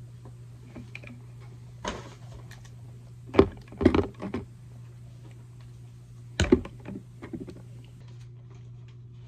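Small items being rummaged through and handled: a few sharp knocks and clatters, loudest about three and a half to four seconds in and again after six seconds, over a steady low hum.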